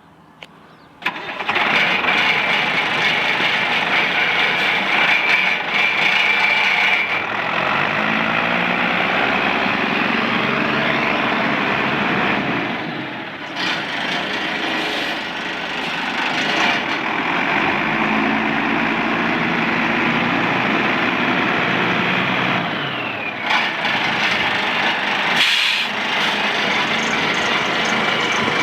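1996 International 4700 truck engine starting about a second in, then running, its speed rising and falling a few times.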